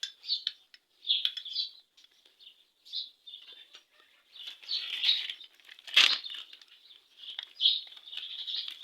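Small birds chirping in short repeated bursts, with rustling and a sharp click about six seconds in as engine parts are handled.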